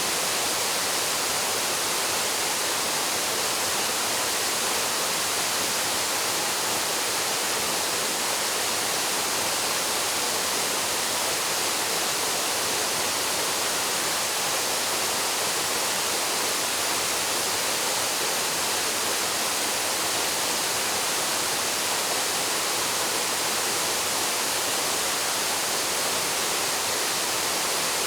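Waterfall plunging into its pool: a steady, even rush of falling water with no change.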